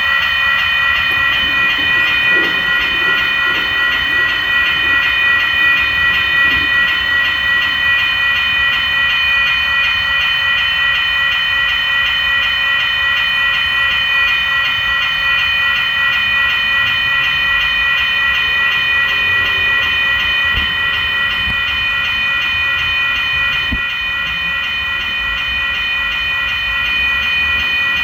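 A train running past, with a steady high-pitched ringing tone held over a low rumble.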